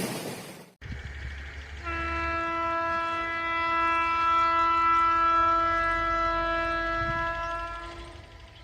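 WAG-12B electric locomotive's horn sounding one long steady blast of about six seconds, a chord of several notes, fading near the end, over a low rumble of the train.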